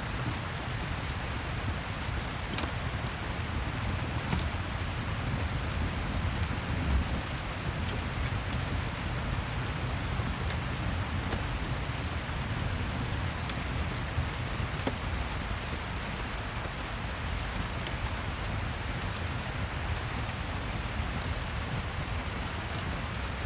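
Steady rain with a crackling wood fire: an even hiss of rain with small crackles and pops scattered through it.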